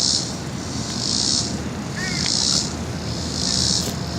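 Insects buzzing in a high pulsing drone, swelling about once a second, over a low steady rumble of distant jet aircraft. A short bird chirp about two seconds in.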